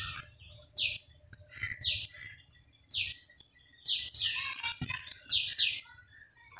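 A bird chirping over and over: short, high, falling chirps roughly once a second, sometimes two close together. A few soft knocks come from a wooden masher crushing boiled hog plums in the pan.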